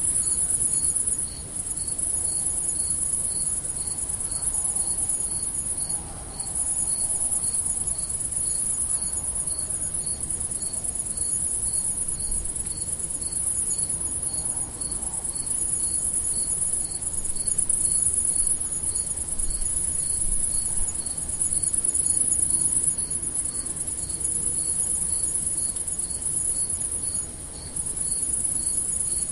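Crickets at night: a continuous high-pitched trill that breaks off briefly three times, over a separate lower chirp repeating steadily about one and a half times a second.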